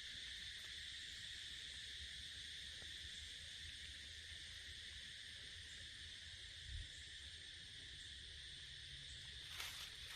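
Steady, high-pitched chorus of forest insects, droning without a break. A brief faint rustle comes near the end.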